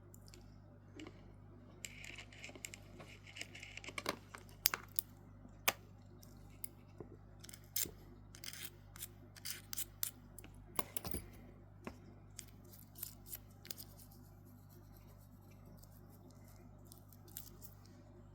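Irregular small sharp clicks and light scraping from handling small hard parts, likely the Casio watch being worked on, with a short hiss a couple of seconds in and a steady low hum underneath.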